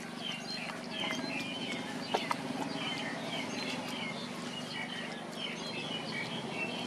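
Small birds chirping in a rapid, continuous series of short high notes. Underneath is a faint steady low hum, and there is one sharp click about two seconds in.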